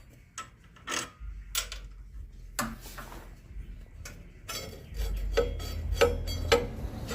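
Metal clicks, clinks and knocks from hand tools and parts being worked on a small engine, scattered at first and busier with a low hum from about five seconds in.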